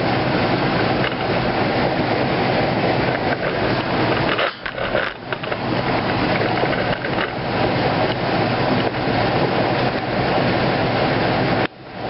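A 2008 Kenmore 500 top-load washing machine spinning near the end of its cycle, a loud steady rumble. The sound dips briefly about four and a half seconds in and again near the end.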